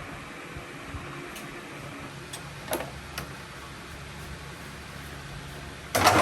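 A steady low hiss with a few light clicks, then a loud clatter of sharp knocks near the end, as of hard parts or tools being handled.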